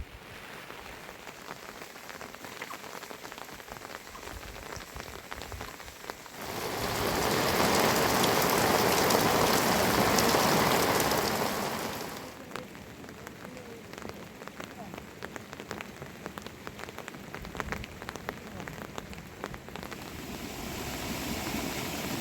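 Heavy rain falling, with a steady hiss dotted with the ticks of individual drops. About six seconds in it suddenly swells into a much louder rush of downpour, which eases back down around twelve seconds.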